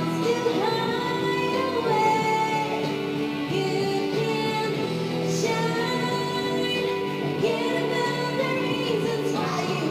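A female voice singing a pop song over instrumental backing.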